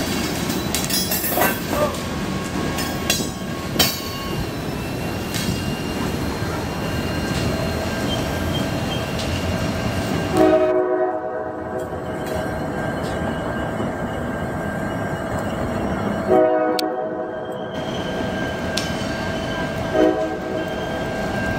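Freight train cars rolling past with a steady rumble and wheels clicking over the rail joints. The locomotive horn sounds a long blast about halfway through, another a few seconds later, and a short one near the end.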